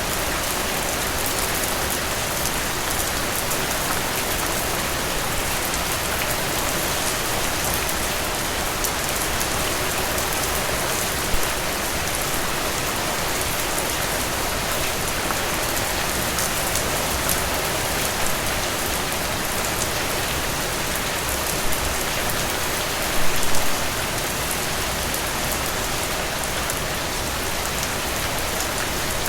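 Steady rain falling, an even, constant hiss, with a few brief louder drop taps scattered through it and a short cluster of them about two-thirds of the way in.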